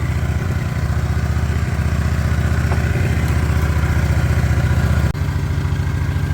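Motorcycle engine idling steadily just after starting, left running to warm up, with a momentary dropout about five seconds in.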